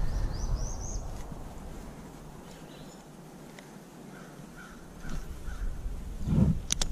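Birds calling: a quick run of short rising chirps in the first second, then a few short calls about five seconds in. A low thump and a couple of sharp clicks near the end.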